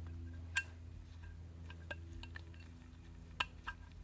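A handful of light, sharp metallic clicks and clinks as a brass bearing bushing is handled and seated in a Garrett TP38 turbo's center housing, over a steady low hum.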